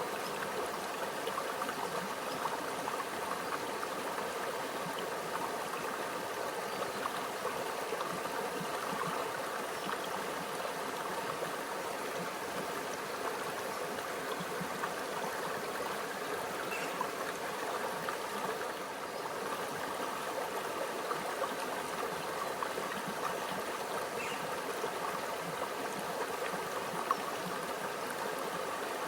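Small stream running over rocks: a steady, even babble and gurgle of shallow water.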